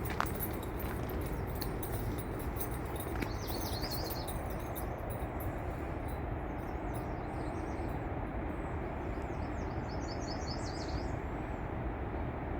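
Songbirds chirping: a short run of chirps about three seconds in and a quick series of high notes near the end, over a steady low rushing background.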